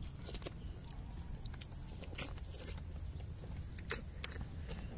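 Eating noises: scattered faint clicks of chewing and lip smacking over a steady low rumble.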